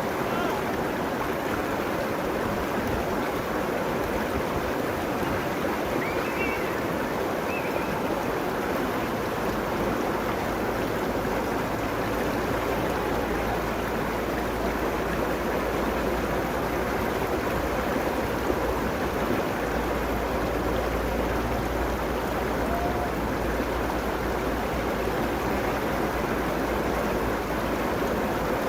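A river flowing steadily, its water rushing along the bank in a continuous, even sound.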